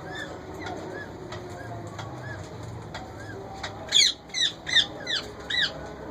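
Indian ringneck parakeets calling in an aviary: soft chirps repeat steadily, then about four seconds in a bird gives a run of five loud, harsh screeches.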